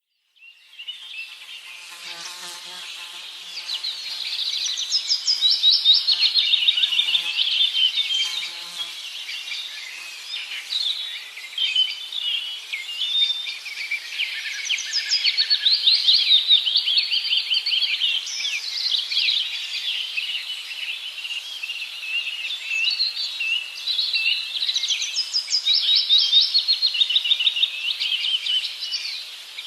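Many birds chattering and calling at once: a dense, unbroken chorus of rapid, high, overlapping calls that swells and falls.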